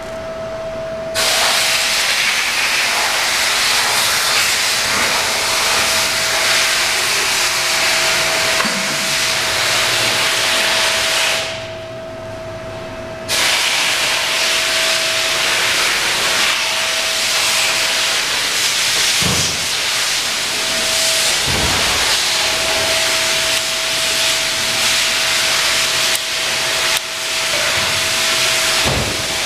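A loud, steady hiss, like escaping air or steam, with a faint steady tone under it. It starts about a second in, stops for about two seconds near the middle, then resumes; a few dull thumps come later.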